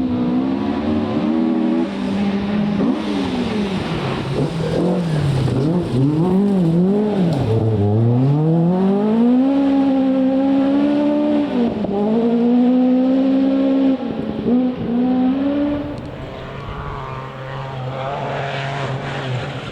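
Rally car engine at full load: the revs swing up and down sharply several times, then climb and hold high for several seconds with a brief dip. About three-quarters of the way through the sound drops to a lower, quieter steady note as the car moves off.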